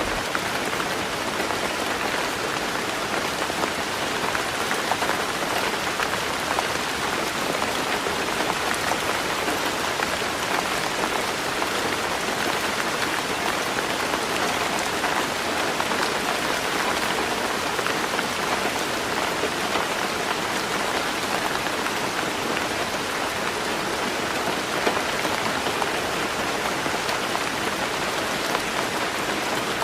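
Heavy rain falling steadily on a tin roof, a dense, even patter of drops that holds at a constant level.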